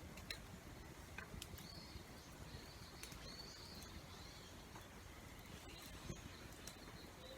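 Faint bird chirps, short rising and falling calls clustered in the middle and again near the end, over a quiet steady background with a few scattered sharp clicks.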